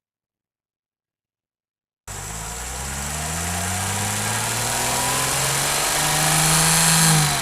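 Truck engine running, cutting in suddenly after about two seconds of dead silence, its pitch drifting slowly upward and growing louder toward the end.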